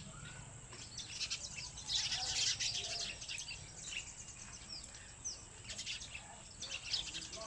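Several small birds chirping and calling together in quick, overlapping high chirps, densest about two seconds in, with a few quick downward-sweeping calls around five seconds in.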